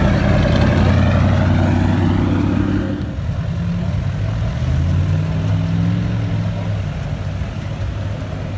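Truck engines running loud, their pitch rising and falling as they move. The sound changes abruptly about three seconds in.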